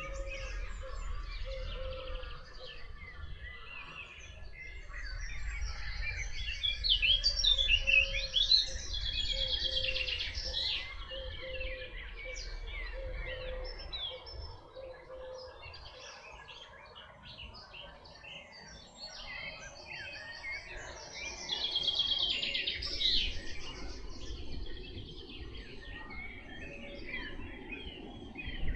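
A chorus of several songbirds singing and chirping over one another, loudest in a spell about a quarter of the way in and again in the last third. Through the first half a low note repeats at an even pace, about once a second, and a low rumble runs underneath.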